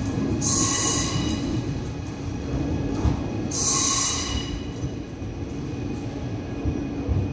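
ETR 526 electric multiple unit pulling out and moving away, a steady rumble of wheels and running gear. Two short hissing bursts sound, one about half a second in and another about three and a half seconds in.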